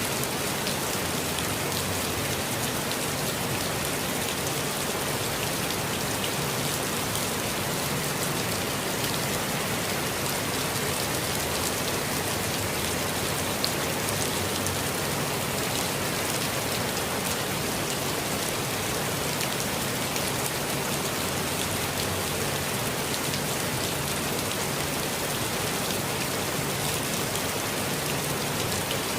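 Steady rainfall pattering on foliage and ground, with a few faint individual drops heard among it.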